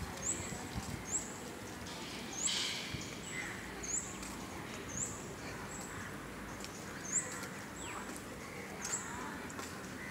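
A bird calling over and over: short, high chirps that rise and then level off, about one a second.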